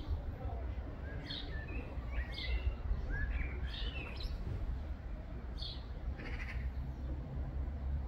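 Birds chirping in short, scattered notes over a low steady background rumble.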